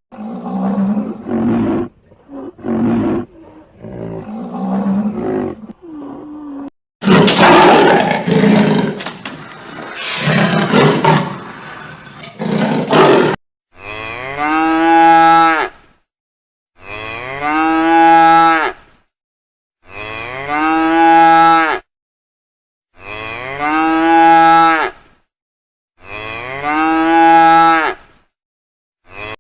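Cattle mooing: a few shorter moos, then a loud, rough, noisier call lasting several seconds, then six long, identical moos repeated about every two and a half seconds.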